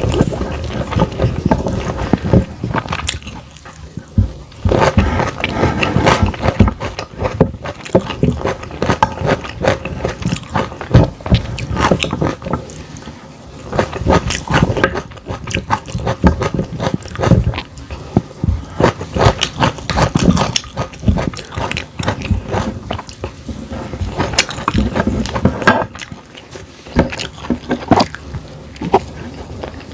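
Close-miked eating: chewing and crunching vegetables such as broccoli, cauliflower and carrot, a dense run of sharp crunches with a few brief pauses between mouthfuls.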